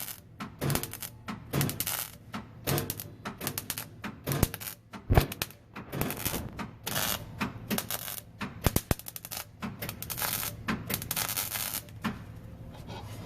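Irregular clicks, taps and light metallic clatter of hand work on exhaust parts, with a few louder knocks about four and five seconds in.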